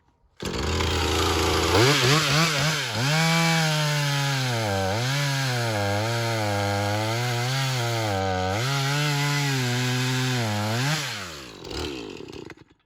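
Two-stroke chainsaw running at speed with a clamp-on chain sharpener pressed to the chain. It starts abruptly about half a second in, and the engine note rises and dips several times. Near the end it falls away and dies out.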